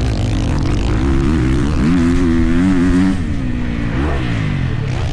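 Dirt bike engine running and revving. The pitch climbs about two seconds in, holds briefly, then falls away.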